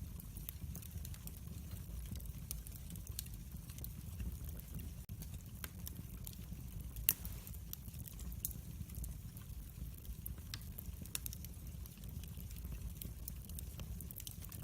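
Wood fire crackling in an open fireplace: irregular sharp pops and ticks over a steady low rumble of the flames, with one louder pop about seven seconds in.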